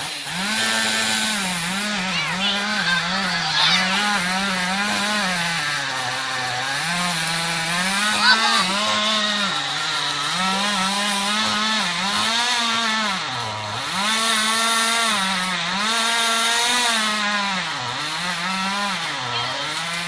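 Two-stroke chainsaw running at high revs. Its pitch dips and climbs back again and again, every second or two, as the throttle is eased and opened.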